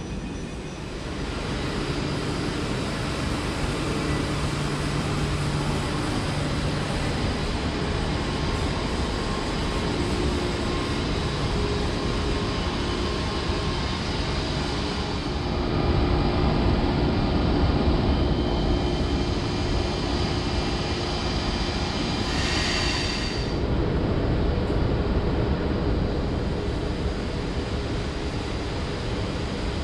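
DB ICE 1 high-speed train running, a steady rumble and rush of rolling noise with faint humming tones, getting louder a little past halfway. There is a brief higher hiss about three-quarters of the way through.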